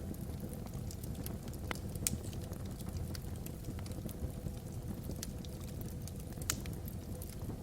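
Wood fire burning in a fireplace, a steady low rumble with scattered sharp crackles and pops, two louder pops about 2 and 6.5 seconds in.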